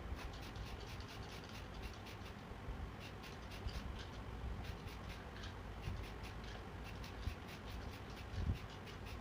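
Rapid, irregular scratching strokes of hand work on a small part, over a steady low rumble.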